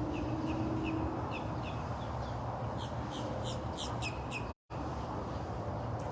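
Birds chirping repeatedly in short, high calls over a steady low background. The sound cuts out completely for a moment about four and a half seconds in.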